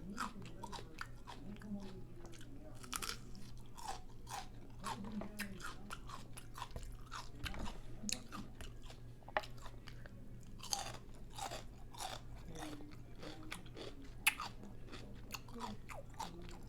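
A person chewing a hard-shell chorizo taco, with many irregular crisp crunches of the shell.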